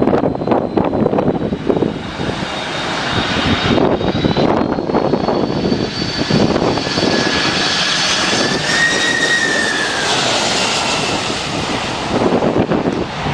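Aircraft engines running loud and steady, a dense rush with a high whine that rises and then falls in pitch about two-thirds of the way in, as from a jet aircraft passing by.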